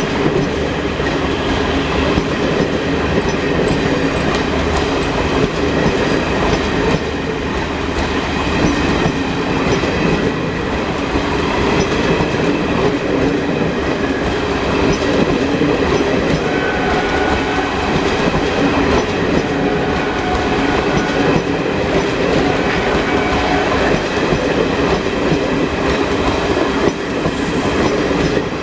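Long passenger train rolling past, its coaches' wheels clattering steadily over the rail joints.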